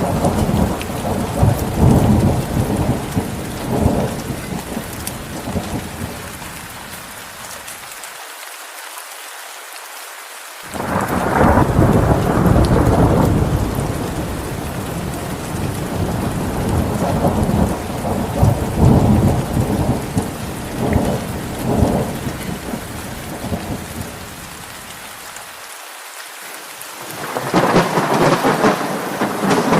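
Heavy rain falling steadily, with thunder rumbling in long low swells, about three times, that fade away between them.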